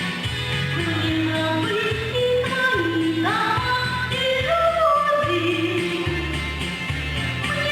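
A woman singing a song over instrumental accompaniment, her melody held and gliding between notes above a steady repeating bass line.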